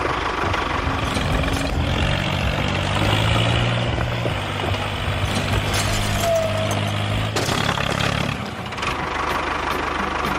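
An engine running steadily, with its hum strongest from about two seconds in until near the end, amid scattered knocks and clatter.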